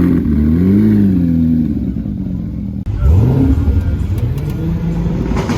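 A supercar engine being revved: its pitch swells up and falls back a few times, then after a sudden break about three seconds in, another rev rises and settles to a steady run.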